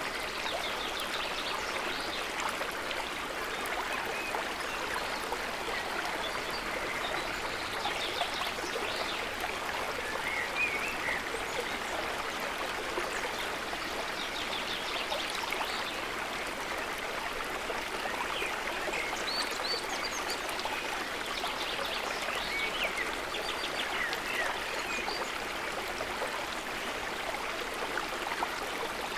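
River water running and gurgling over stones in a steady rushing flow. A few brief high-pitched sounds stand out above it now and then.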